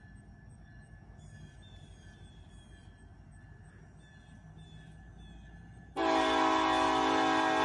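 Norfolk Southern diesel locomotive's air horn sounding one long blast that starts suddenly about six seconds in, several notes together as a chord. Before it there is only faint background noise.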